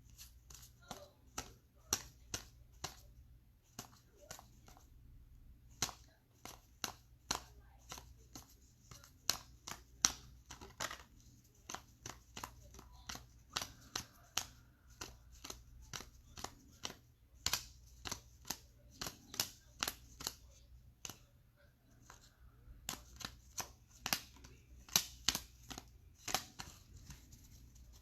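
Trading cards being flipped through one at a time by hand, each card giving a sharp snap or click, irregularly, about one to three a second.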